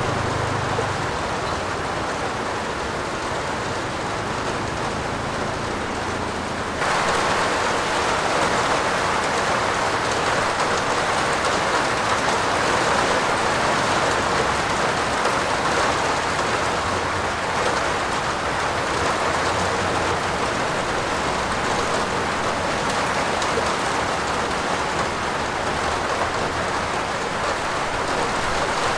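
Heavy rain falling steadily on a roof. About seven seconds in it abruptly becomes louder and brighter.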